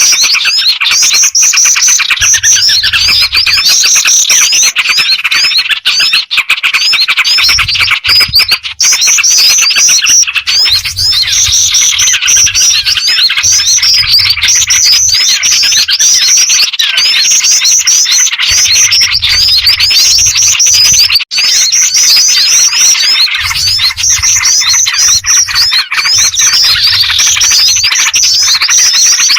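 Bird-lure recording of dense, continuous chirping and twittering that repeats in a loop every few seconds. It mixes jingjing batu (black-winged flycatcher-shrike) calls with small-bird chatter and trucukan (yellow-vented bulbul) calls.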